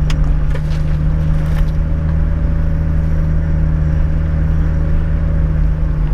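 Toyota LandCruiser 105 engine running steadily at low revs, heard from inside the cabin, with a few sharp clicks and knocks in the first couple of seconds.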